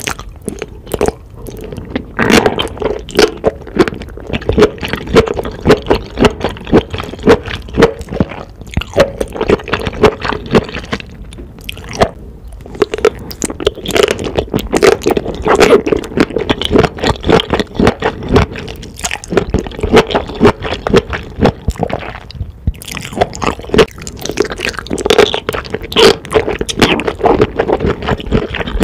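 Close-miked wet chewing and squishing of enoki mushrooms coated in thick black bean sauce, with many quick sticky mouth smacks and soft crunches.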